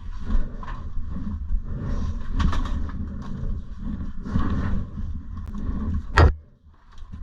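Dirt bike running with irregular knocks and rattles. One loud sharp hit comes about six seconds in, after which the sound briefly drops away.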